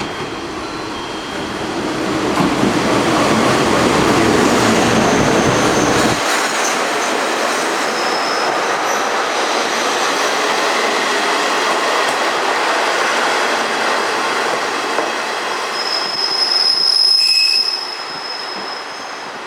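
KiHa 40 and KiHa 48 diesel railcars rolling into a station and braking to a stop: steady running and wheel noise, with a high brake-and-wheel squeal that is loudest a couple of seconds before the end, then the noise dies down as the train halts.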